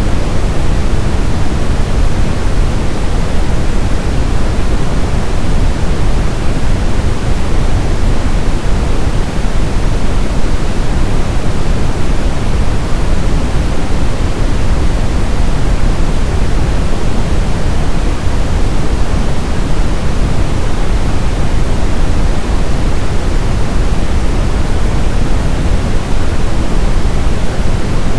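Brown noise: a steady, loud, deep rushing hiss, strongest in the bass and falling away toward the treble, with no changes or events.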